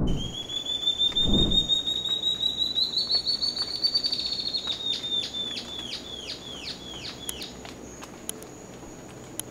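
Ocellated antbird singing: a long series of whistled notes that run close together and rise in pitch, then slow into separate down-slurred notes that fade out about eight seconds in.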